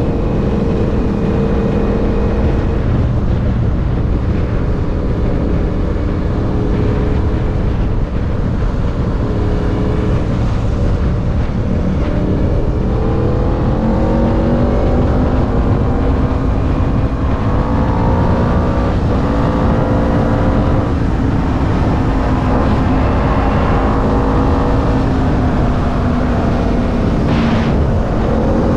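Motorbike engine running under way, its pitch holding, then climbing steadily for several seconds, easing off and picking up again as the throttle and gears change, over a heavy rumble of wind on the microphone.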